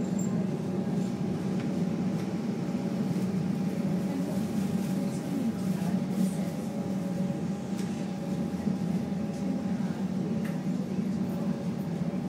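Steady electrical hum inside a Comeng electric train carriage, a low drone with a thin steady whine or two above it.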